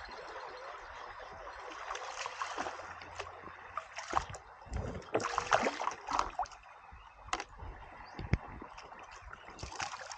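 Water splashing and knocking around a kayak on a river, irregular sharp splashes and knocks over a steady rush of flowing water.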